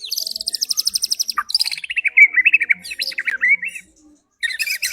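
White-rumped shama (murai batu) singing. It opens with a fast high trill of about a second and a half, then a quick falling note and a run of varied warbled phrases. There is a short pause near the end, then another rapid burst.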